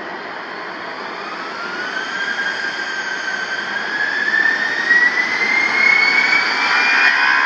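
Airbus A319's twin jet engines spooling up for the takeoff roll. A whine rises steadily in pitch and the sound grows louder over the whole stretch.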